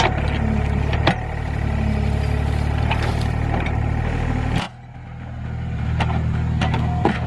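Excavator diesel engine running steadily under load, with scattered sharp metal clanks. A little over halfway through, the engine sound drops off suddenly, then builds back up over a second or so.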